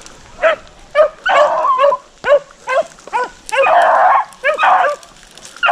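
A pack of rabbit hounds baying and barking on a rabbit's trail: a string of short sharp barks mixed with a few longer drawn-out bays.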